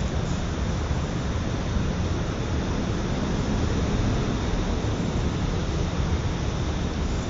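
Rain falling steadily: an even hiss with a strong low rumble underneath.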